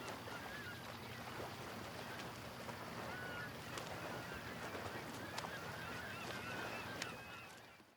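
A flock of birds calling with short, goose-like calls over a faint steady background ambience. It fades out to silence near the end.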